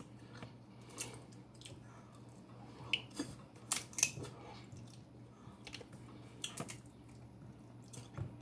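Snow crab legs being eaten close to the microphone: scattered sharp clicks and snaps of shell and mouth smacks, several clustered about three to four seconds in.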